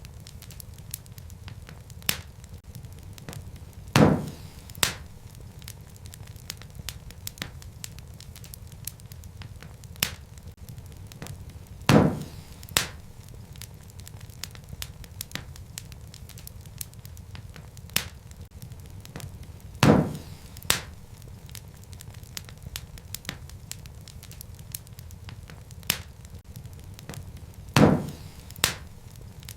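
Wood fire crackling in a fireplace: a steady low rumble of burning under many small ticks and crackles, with a loud pop about every eight seconds, each followed by a smaller pop. The same pattern of pops repeats evenly, as a short loop of fire sound does.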